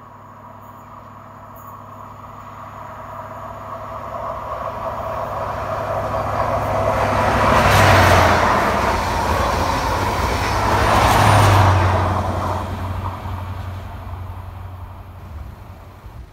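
A ScotRail diesel High Speed Train passes at speed: a diesel engine drone and a roar of wheels on rails that swell as it approaches, are loudest twice, about 8 and 11.5 seconds in, then fade away.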